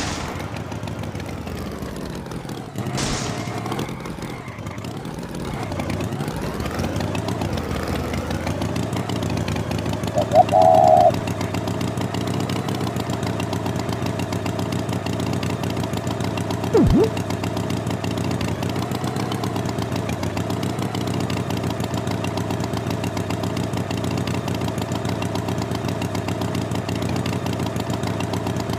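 An engine running steadily at idle, its pitch sweeping up and down in the first few seconds before settling, with a short warbling tone about ten seconds in and a brief sharp sound near the middle.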